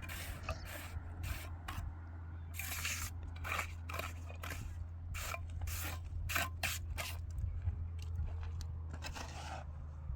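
Repeated, irregular scraping strokes over a steady low hum.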